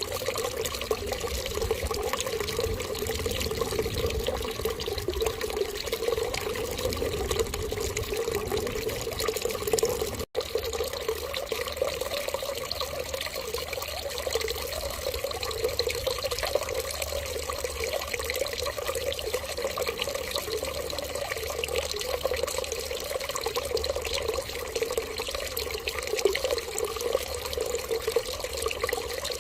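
Steady stream of running water, unbroken apart from a momentary cut about ten seconds in.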